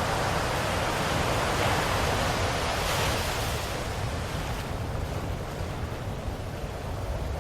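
Ocean waves washing onto a shore, a steady surf wash that swells and then eases off about halfway through.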